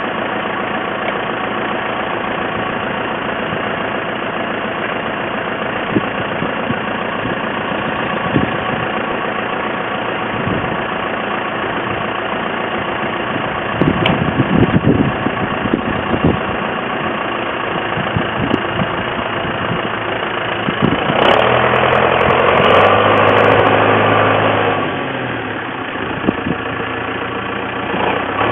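Tractor engine idling steadily, with a few clunks about halfway through and a louder stretch of a few seconds near the end.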